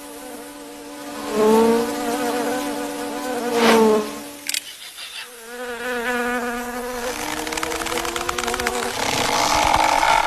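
Insect-like buzzing, a droning hum that wavers and swells loudly twice, then in the second half climbs slowly in pitch.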